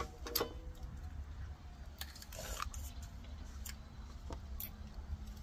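Scattered small clicks and wet smacks of a mouth chewing and sucking the flesh of a coyol palm fruit, over a low steady rumble.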